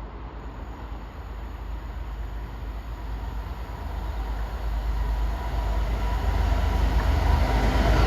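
A train approaching, its rumble growing steadily louder, with a faint high tone over it.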